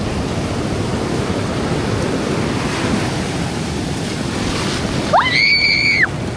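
Ocean surf washing steadily on the beach. About five seconds in, a single high-pitched cry rises sharply, holds for just under a second, then stops.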